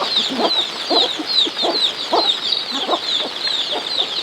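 Chickens clucking in short low calls, over a continuous dense chatter of high, quick chirps.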